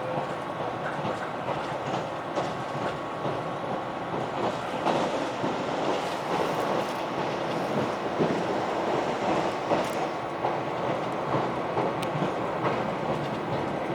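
Running noise of a KiHa 261-5000 series diesel express train heard from on board: a steady rumble with the wheels clicking over the rails.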